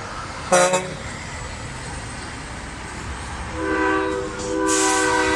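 Truck air horns: one short blast about half a second in, then a long horn chord of several notes starting after about three and a half seconds, over a low engine rumble. A burst of hiss joins near the end.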